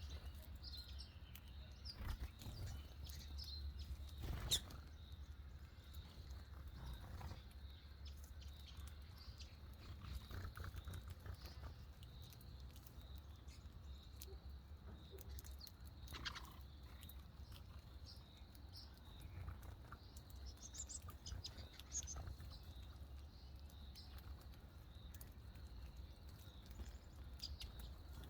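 Birds chirping faintly in scattered short calls over a steady low rumble, with a few sharp clicks or knocks.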